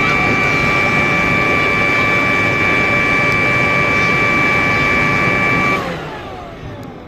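A motor-driven machine running steadily at high speed with a whine. About six seconds in it is switched off and winds down, its pitch falling as it slows.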